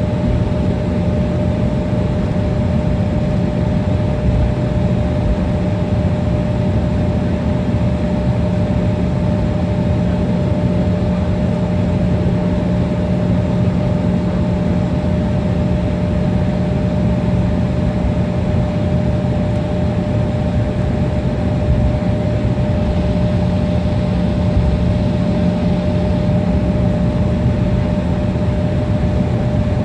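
Steady jet drone heard from inside a regional airliner's cabin, engines running at low power. A constant low hum and a steadier, higher tone sit over an even rush of air.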